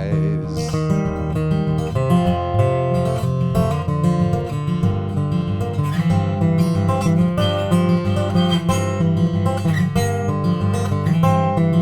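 Acoustic guitar strummed steadily through an instrumental break between sung verses of a folk song.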